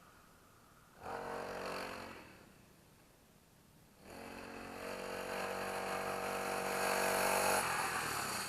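Small 40cc mini dirt bike engine running in two spells: a short burst about a second in that fades away, then from about four seconds a longer steady run that grows louder. The engine is still warming up.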